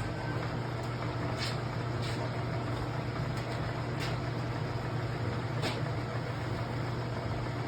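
A shop machine's motor running steadily with a low, even hum, with a few light ticks.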